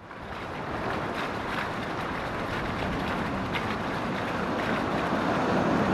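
Typhoon wind and heavy surf: a steady rushing noise with wind buffeting the microphone, fading in at the start.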